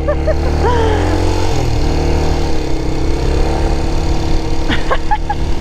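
1990 Honda NX250 motorcycle's single-cylinder engine running steadily, with a shift in engine note about a second and a half in and a few sharp clicks near the end.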